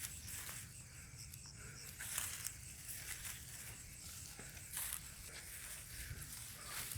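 Intermittent soft rustling and crackling, with a faint steady low rumble underneath.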